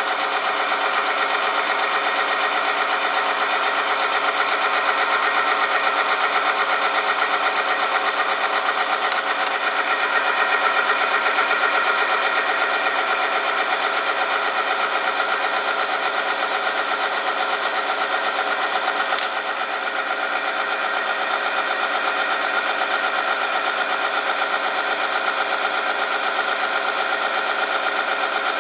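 Oil-film friction test machine running: its electric motor spins a lubricated steel part rubbing against a loaded test sample, making a steady, fast mechanical whirr and grinding. The sound drops slightly about two-thirds of the way through.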